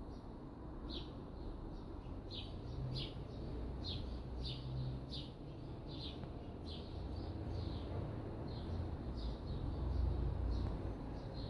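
A small bird chirping over and over, short high falling notes about one or two a second, over a steady low rumble.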